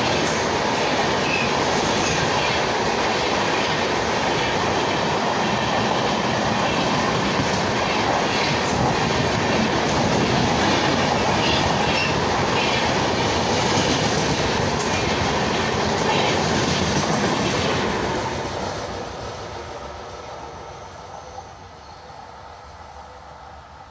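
Express passenger train's coaches rushing past close by, wheels clattering over the rail joints. The sound fades away from about 18 seconds in as the last coach passes.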